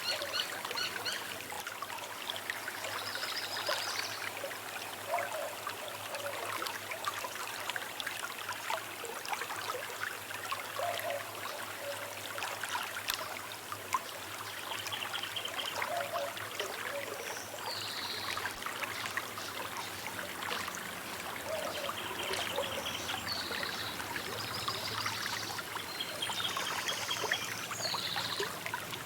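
A small river flowing with a steady trickling, babbling sound, with birds chirping at intervals over it, more often in the second half.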